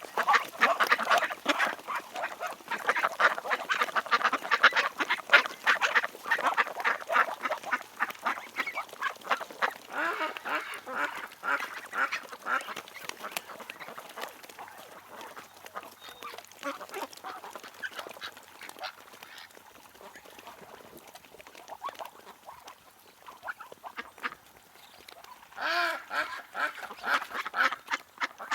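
Ducks quacking in a busy, overlapping chorus that thins out and grows quieter after about twelve seconds, with a louder burst of calls near the end.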